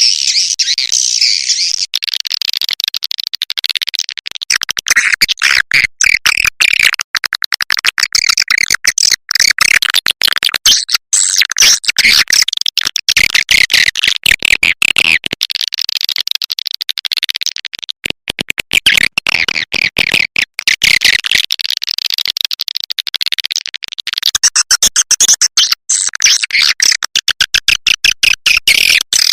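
Edible-nest swiftlets twittering continuously in a dense, high-pitched chorus of chirps, laced with rapid clicking. This is the kind of swiftlet call recording played from speakers as a lure to draw swiftlets into a nesting house.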